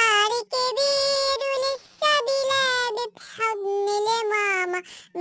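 Arabic children's song: a high, child-like singing voice holding long notes, with short breaks between phrases.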